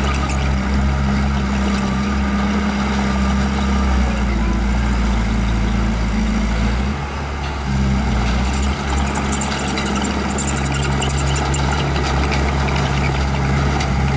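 Small bulldozer's diesel engine running steadily, its note dipping briefly and shifting about halfway through, with a light clatter in the second half.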